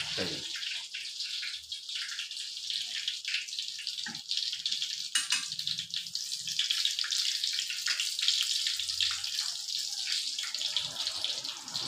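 Rat meat frying in a pan of hot oil: a steady sizzle with a constant crackle of small pops.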